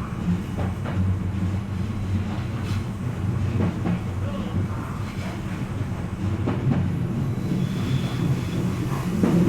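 Odakyu electric train running along the track, heard from inside the front car: a steady low rumble, with the clack of wheels passing over rail joints now and then.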